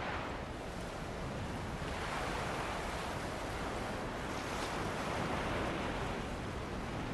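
Ocean waves washing onto a beach with wind, a steady rush of surf that swells a little twice.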